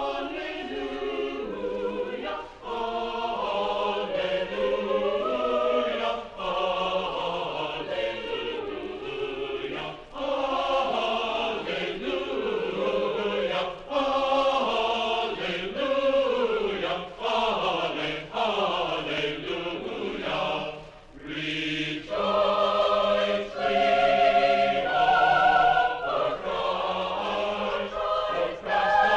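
Choir singing in sustained phrases, with short breaks between phrases and a longer pause about three-quarters of the way through.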